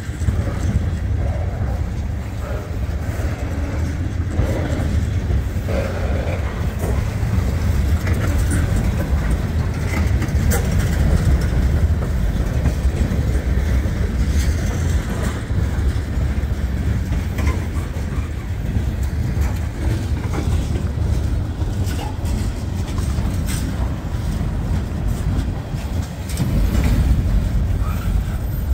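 Freight train rolling past: a steady low rumble of wheels on the rails, with scattered clicks and rattles from the cars.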